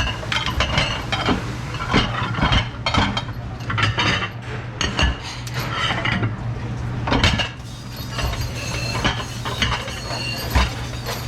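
Dishes and cutlery clattering and clinking as they are handled, in many separate sharp knocks, over a steady low hum.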